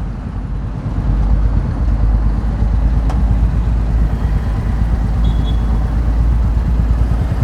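Royal Enfield Meteor 350's single-cylinder engine running steadily under way, with heavy low wind rumble on the helmet-mounted camera; the engine note grows louder about a second in.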